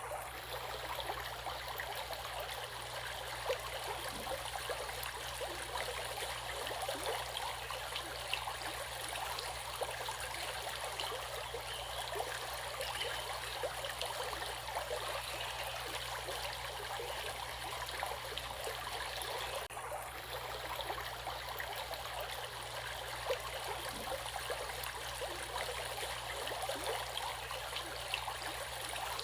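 Flowing water in a stream, a steady babbling and trickling with many small splashes.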